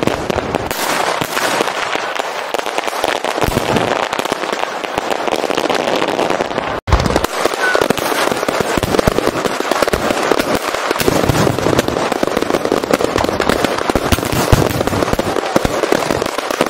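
Fireworks going off: a dense, continuous crackle of small pops with heavier low booms now and then. The sound cuts out for an instant about seven seconds in.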